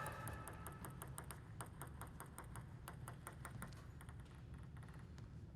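Faint, quick light clicks of a celluloid-type table tennis ball bouncing, several a second, thinning out after about four seconds, over a steady low hum.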